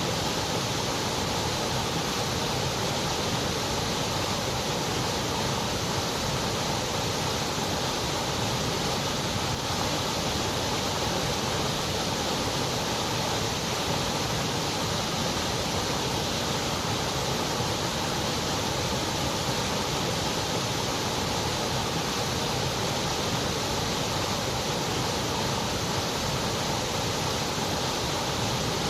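Continuous synthetic white noise: an even, steady hiss that does not change.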